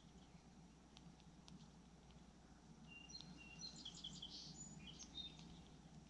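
Faint outdoor background with a songbird chirping: a quick run of short high notes about halfway through, lasting around two seconds.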